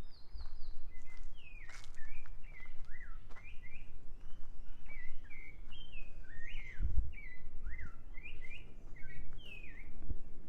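Songbirds singing: short slurred whistled phrases repeated throughout, over a steady low background rumble. A low thump comes about seven seconds in and another near the end.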